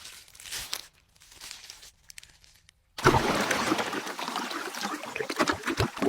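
Water splashing and trickling: faint scattered crackles at first, then a sudden, louder rush of splashing about halfway through.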